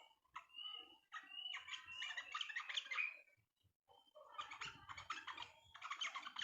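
Yellow-vented bulbul singing in fast chattering runs of notes, two long runs with a short break between them. Each run is led in by a few short whistled notes.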